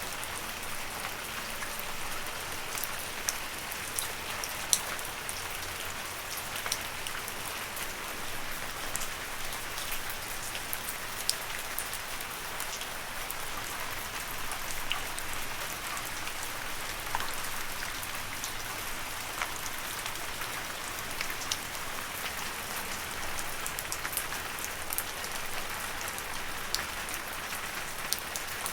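Steady rain falling on leaves: an even hiss of rainfall with frequent separate drops ticking sharply on the foliage.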